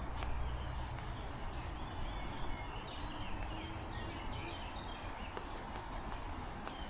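Heavy rain falling steadily, with a low wind rumble on the microphone and a few sharp ticks of drops or footsteps. Short high bird chirps come through the rain around the middle.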